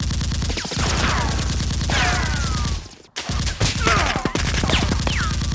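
Rapid automatic-gunfire sound effect: a fast, even stream of shots with falling whistles over it like bullets ricocheting. It cuts off abruptly about three seconds in and starts again a moment later.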